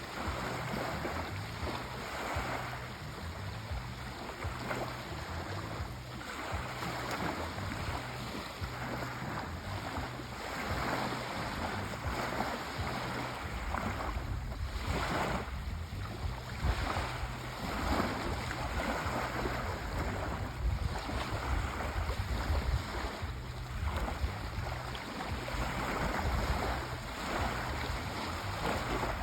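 Sea waves washing in a continuous rush, surging and easing every second or two over a low rumble.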